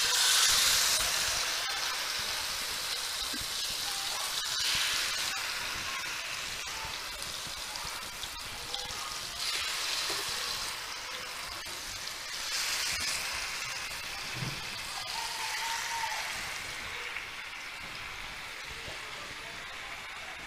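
Green-masala-coated chicken pieces sizzling in hot coconut oil in a frying pan. The sizzle surges louder about every four or five seconds as more pieces are laid into the pan, then settles to a quieter, steady sizzle near the end.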